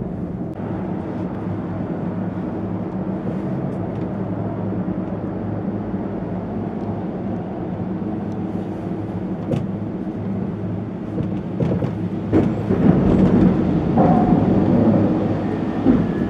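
Steady low hum of a running vehicle, growing louder and noisier in the last few seconds.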